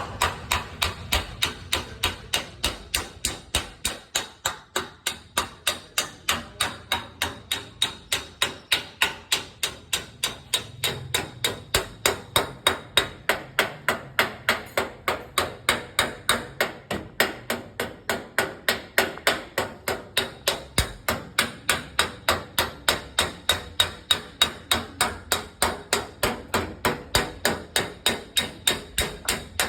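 Small hammer tapping a dent repair tool against the spoiler in paintless dent repair: a steady run of light, even strikes, about three a second.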